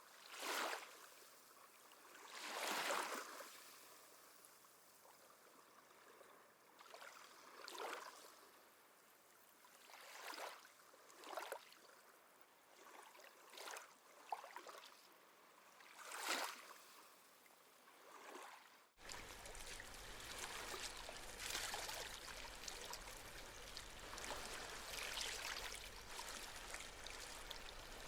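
Small sea waves washing in on a shore, one soft surge every two or three seconds. About two-thirds through, the sound cuts abruptly to a steadier, denser wash of water with a low hum underneath.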